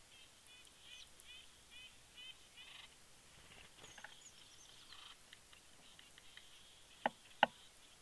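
A small bird calling faintly, a short repeated note about every half second through the first three seconds. Near the end come two sharp taps, a little under half a second apart, which are the loudest sounds.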